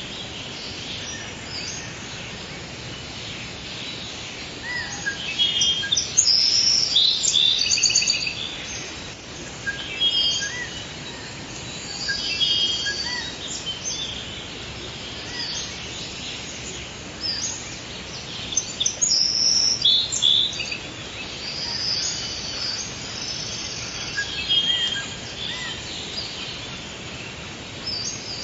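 Forest ambience with several birds chirping and trilling in short, high phrases over a steady background hiss.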